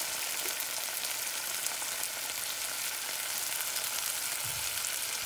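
Ginger, garlic, green chilli and spring onion sizzling steadily in hot oil in a frying pan, with chilli sauce on top and soy sauce being spooned in.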